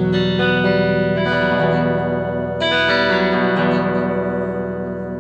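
Electric guitar played clean, with the phaser pedal bypassed. One chord is ringing, and a second chord is struck about two and a half seconds in and left to ring out.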